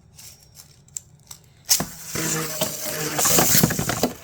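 Plastic-generation Beyblade spinning tops launched into a plastic stadium about two seconds in, with a few light clicks before the launch. After that they spin with a steady whir and rapid clattering and scraping as they clash, loudest in the second half.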